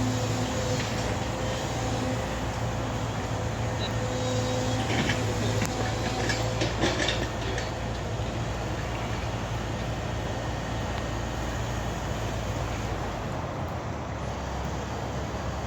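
A large engine running with a steady drone that eases off near the end, with a short stretch of metallic rattling and clanking about five to seven seconds in.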